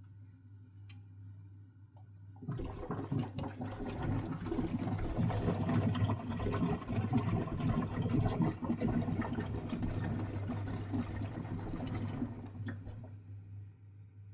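Water gushing and splashing for about ten seconds, starting a couple of seconds in and tailing off near the end, over a steady low hum. The water is being flushed through a boiler's condensate pipe as the pipe is cleared.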